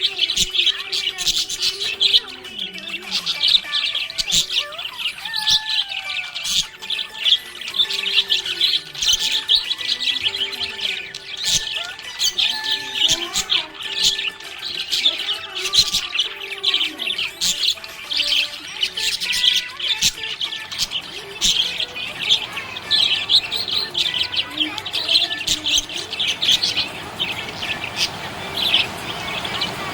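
Budgerigars chirping and warbling without a break: a dense stream of quick high chirps over lower gliding warble notes.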